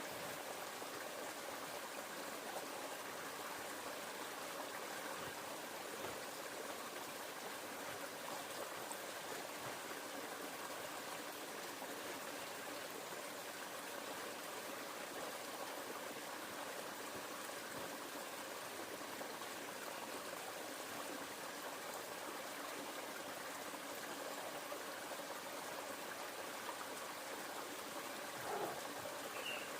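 Steady rush of a river's running water, with a short faint sound near the end.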